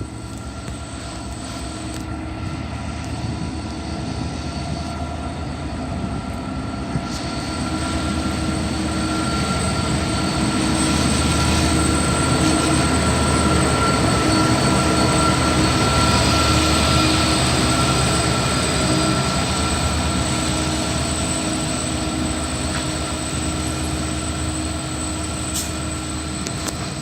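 Loaded coal train rolling past behind an 82 class diesel-electric locomotive: a steady rumble of wagons on the rails that builds to its loudest about halfway through, then eases slightly.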